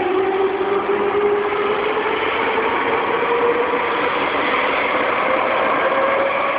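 Tokyu 2000 series electric train's Hitachi GTO-thyristor VVVF inverter and traction motors whining as the train accelerates. Two tones rise slowly in pitch over steady running noise.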